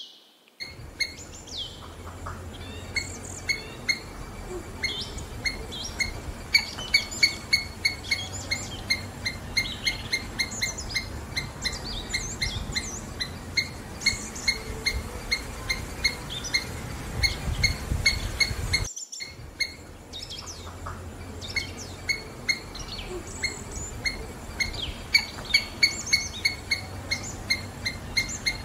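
Small birds chirping outdoors, with many short, quick notes repeating over a steady low rumble; the sound breaks off briefly about two-thirds of the way through, then resumes.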